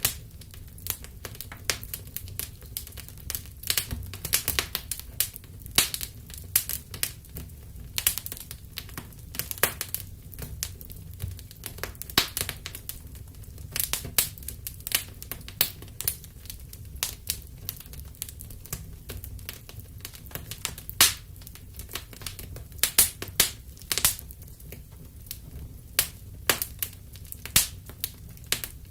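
Wood fire in a fireplace crackling, with sharp, irregular pops several times a second over a low, steady rumble.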